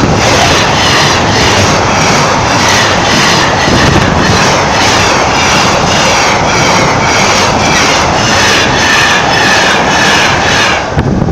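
A train passing close by at a level crossing. Its loud, steady rush carries a regular clatter of about two to three beats a second and stops abruptly near the end.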